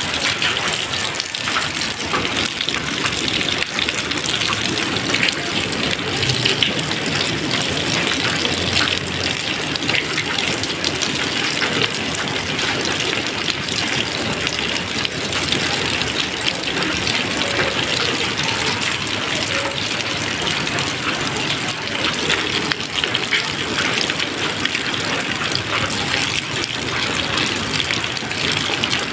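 Steady rain, a dense, even patter of drops with no thunder.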